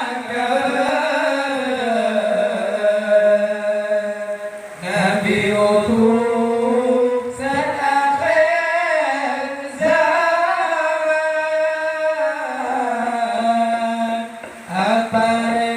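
A man chanting Madurese sholawat, a devotional Islamic song, in a single unaccompanied voice. He holds long, ornamented notes that bend up and down, pausing briefly for breath a few times.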